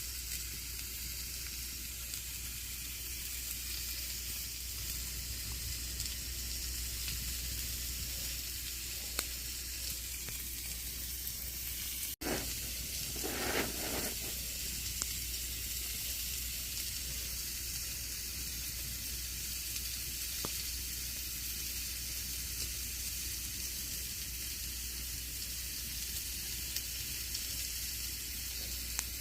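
Campfire burning: a steady hiss with scattered faint pops. About halfway through there is a split-second gap, then a brief louder burst of crackling.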